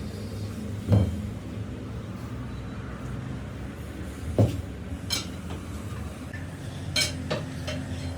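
Metal tools clinking and knocking, about five sharp strikes, over a steady low machine hum.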